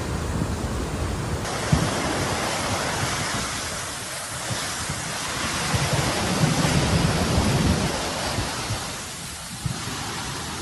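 Storm wind rushing steadily, with gusts buffeting the microphone and swelling louder a little past the middle.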